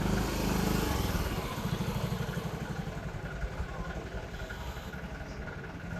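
A motor vehicle engine running, louder for the first two seconds and then steady.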